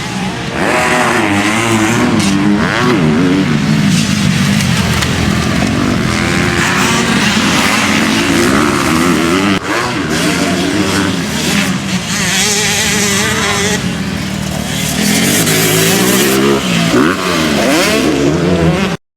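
Motocross bikes racing, several engines revving up and down through the gears as they pass. The sound cuts off suddenly near the end.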